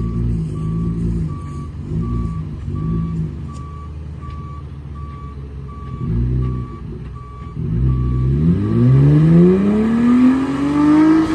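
A truck's reverse backup alarm beeping steadily at one pitch while truck engines rev in short bursts. The beeping stops about nine seconds in, as one engine revs up in a long rising pull and holds high, pulling against a tow truck mired in mud that does not come free.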